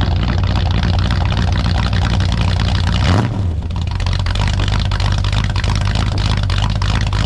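1966 Chrysler 300's 383 big-block V8 running at idle about two minutes after a cold start at 48 °F, with a brief dip in the sound about three seconds in.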